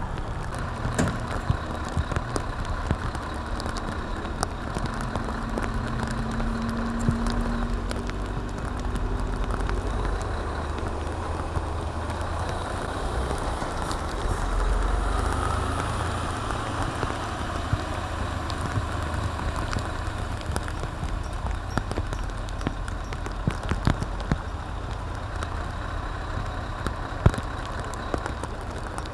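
Heavy recovery truck's diesel engine running steadily, with scattered sharp clicks and knocks over it.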